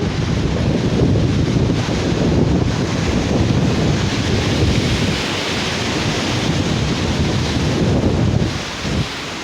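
Sea waves washing onto a beach, a surge swelling through the middle, with wind buffeting the microphone.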